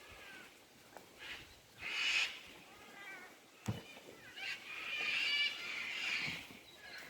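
Animal calls: several short pitched cries, a quick run of falling notes, then one longer call, with a sharp click in between.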